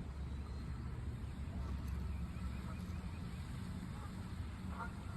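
Killdeer calling faintly over a steady low rumble, the calls growing louder and more frequent near the end.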